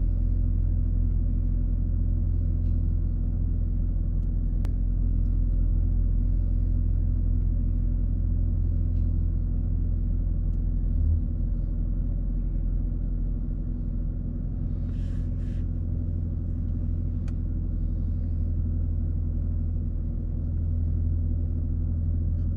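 Car engine running steadily at low speed, heard from inside the cabin as a continuous low rumble while the car creeps along slowly in reverse.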